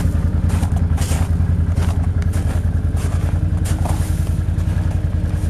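ATV engines idling steadily with a fast, even low pulse, a few light clicks over them.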